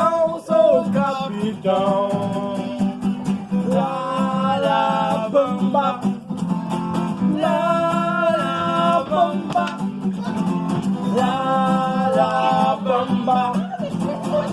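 A strummed acoustic guitar with voices singing along, in long held sung notes.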